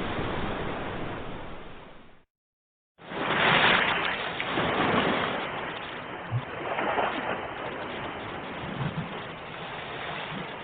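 Ocean waves surging and washing ashore in steady noise that swells and ebbs. About two seconds in it fades to dead silence for under a second, then comes back loud with a breaking wave, as at an edit or loop point.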